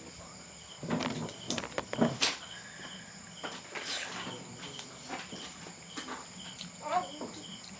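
Insects chirping in a steady, evenly pulsing chorus, with a few brief clicks and short voice sounds over it.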